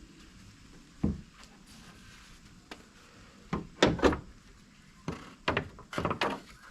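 Car door being handled: a series of knocks and thumps, the loudest about four seconds in.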